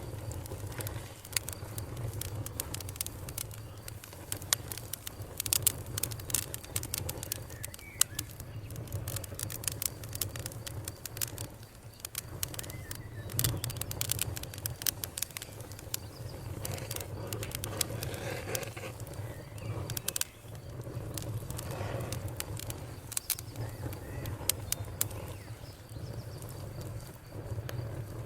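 Campfire crackling, with many irregular sharp pops and snaps over a steady low rumble, and a few faint bird chirps.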